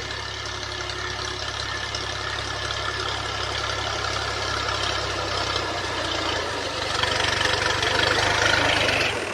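Fiat 480 tractor's diesel engine running steadily, growing louder about two-thirds of the way in.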